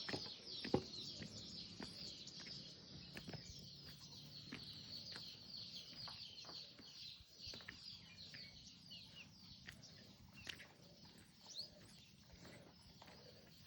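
A chorus of many small birds chirping and twittering without pause, with scattered faint clicks or taps, the sharpest about a second in.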